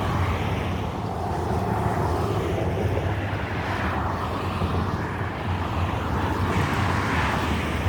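Road traffic passing: a steady rumble of engines and tyre hiss, swelling as vehicles go by about four and seven seconds in.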